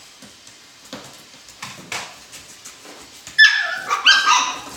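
Alaskan Klee Kai puppies giving a quick run of loud, high-pitched yips and barks starting about three and a half seconds in, after a few faint clicks and scuffles.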